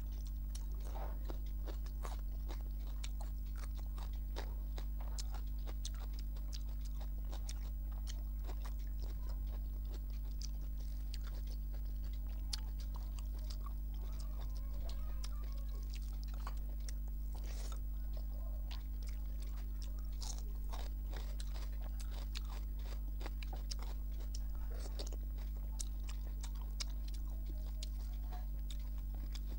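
Close-miked eating sounds: chewing, biting and wet mouth clicks, with the soft squish of fingers mixing rice and curry on a plate. A steady low electrical hum runs underneath.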